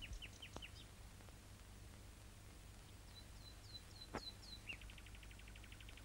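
Faint bird chirping: a few short falling chirps at the start, another run of about five chirps a little past halfway with a soft click, then a rapid trill near the end.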